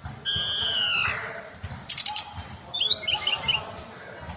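Tledekan gunung, a flowerpecker, singing. It gives one long falling whistled note, then a quick burst of sharp high ticks, then a run of short high chirps.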